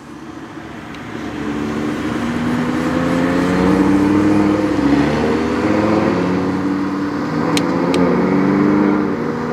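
Two Lamborghini supercars driving past, their engine notes overlapping, growing louder over the first few seconds and then running on with the pitch rising and falling as they accelerate.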